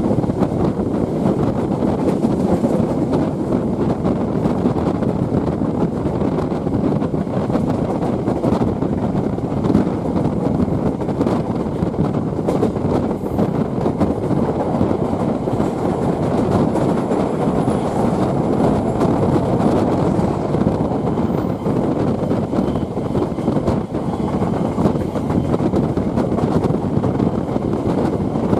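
Passenger train running along the track, heard from on board: a steady rumble of wheels on rails and carriage noise.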